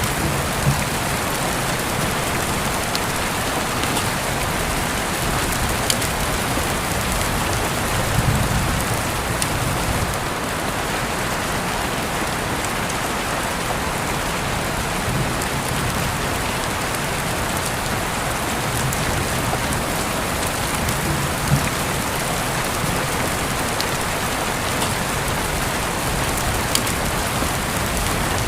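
Steady rain falling, a constant hiss with scattered individual drop clicks and now and then a soft low rumble.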